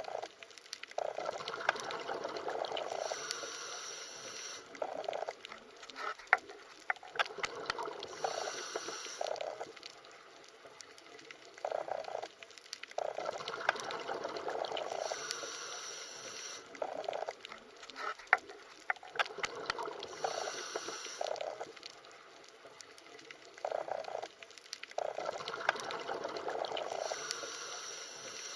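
Underwater water sounds: a bubbling, rushing wash that swells and fades about every six seconds, with scattered sharp clicks.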